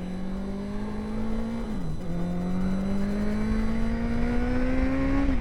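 Honda CBR650's inline-four through an aftermarket exhaust, pulling up gently in revs, with an upshift about two seconds in and another at the very end, over wind noise on the microphone.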